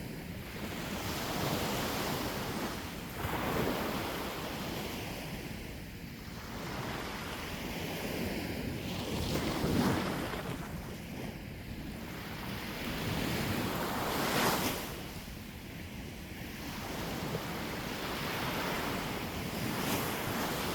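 Sea waves breaking and washing on the shore, the rush swelling and ebbing every few seconds, with wind buffeting the microphone.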